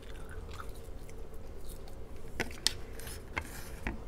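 Close-miked chewing of garlic butter seafood, with a few sharp wet clicks and smacks in the second half.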